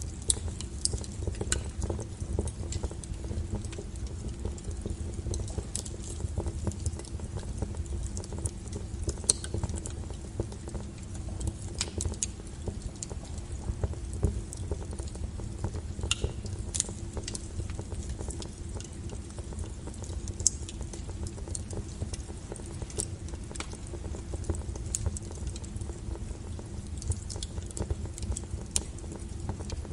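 Wood fire burning with a steady low rumble and frequent irregular sharp crackles and pops from the burning logs.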